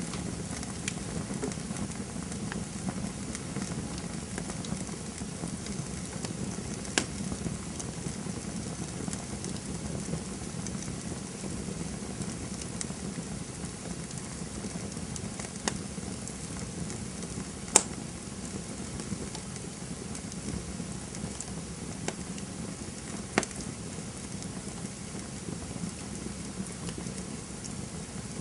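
Wood campfire burning: a steady low rush of flame with frequent small crackles and a few sharp pops, the loudest about two-thirds of the way through.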